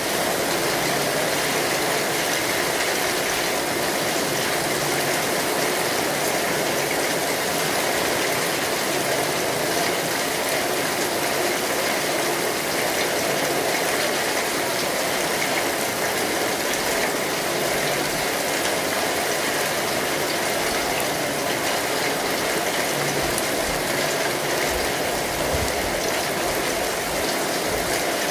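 Steady rain drumming on an umbrella canopy: a dense, even hiss of many small drop impacts, unchanging throughout.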